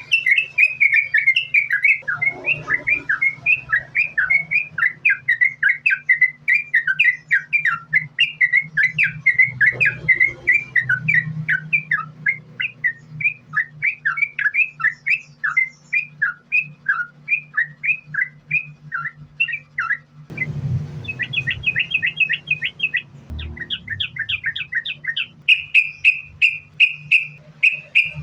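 Yellow-vented bulbul (trucukan) singing in a long, unbroken run of short chattering notes, about five a second, with the phrases turning tighter and faster for the last several seconds. A steady low hum runs underneath.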